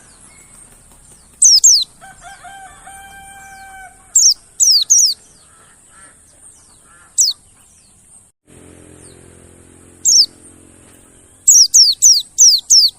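Mountain white-eyes giving sharp, high descending chirps, singly and in quick runs, thickest near the end. A faint drawn-out call sounds in the background about two seconds in.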